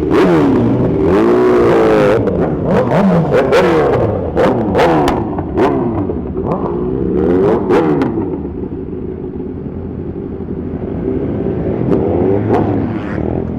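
Superbike engines revving hard again and again, the pitch sweeping up and down, with sharp exhaust pops and cracks between revs. After about eight seconds it settles to a lower, steadier running sound, then there are a couple more revs and pops near the end.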